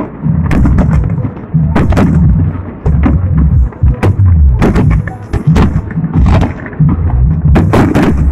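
Aerial fireworks shells bursting in quick succession: a dozen or so sharp bangs, some close together, over a continuous deep booming rumble.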